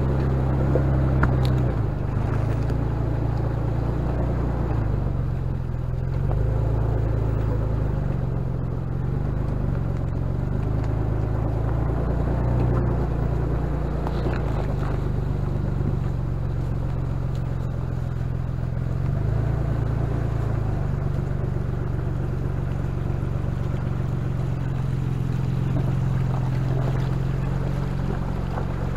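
A 4x4's engine running at low revs as it crawls along, its low drone stepping up and down in pitch with the throttle, with a few faint knocks and rattles.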